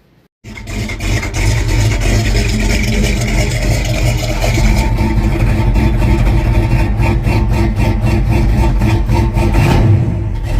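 Chevrolet Suburban's V8 engine running steadily, cutting in abruptly a moment in.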